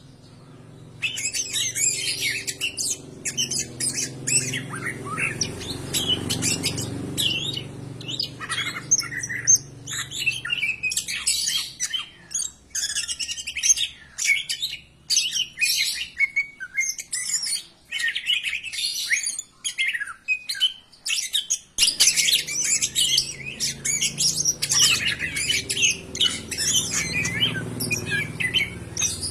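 Cucak ijo (green leafbird) singing, a fast, unbroken string of varied high chirps and whistles starting about a second in, over a low background hum.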